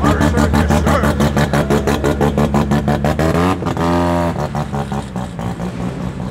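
Performance car engine running with a choppy, pulsing exhaust note as it pulls away. About three and a half seconds in it gives a short, steady, held rev, then it eases off.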